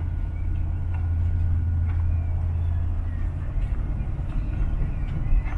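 Gulls calling faintly in the distance over a steady low rumble that eases off about three seconds in.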